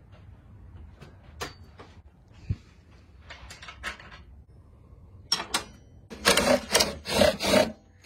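Hand tools clicking and knocking on the metal parts of a mini bike as it is taken apart, with a louder run of rapid rattling clatter near the end.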